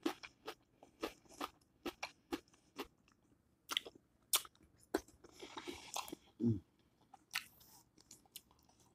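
A person chewing and biting food from a seafood boil close to the microphone: a run of short, sharp wet crunches and mouth clicks, about one or two a second, with a brief hum about six and a half seconds in.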